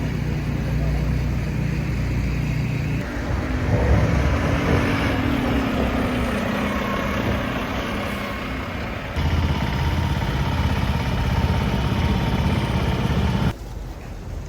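Loud motor-vehicle engine and traffic noise, cut abruptly into several segments.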